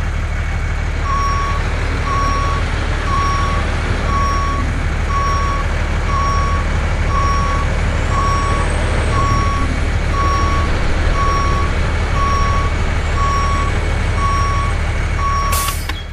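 Truck reversing: its back-up alarm beeps about once a second over a steady engine rumble. The sound cuts off suddenly near the end.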